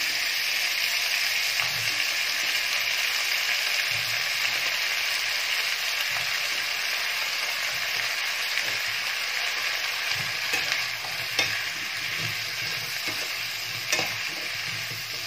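Diced potatoes frying in hot oil in a frying pan with onion, garlic and leek, a steady sizzle. A few short clicks near the end as the pan's contents are handled.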